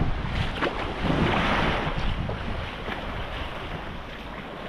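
Wind buffeting the microphone with a low rumble, over small waves washing onto a sandy shore; one wash swells up about a second in and fades.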